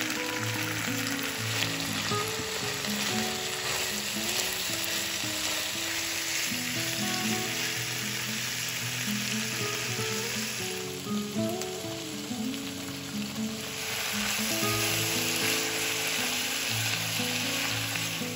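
Food frying in hot oil in a pan, a steady sizzle that runs on without a break.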